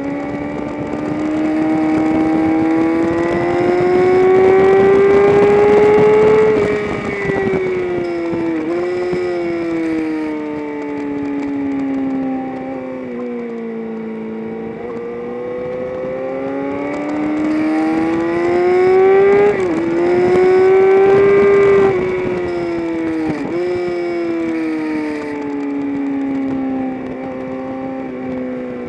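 Engine of a vehicle lapping a race track. Its revs climb steadily under acceleration for several seconds, then fall away on braking, with quick sharp rev blips as it is shifted down, and the cycle repeats.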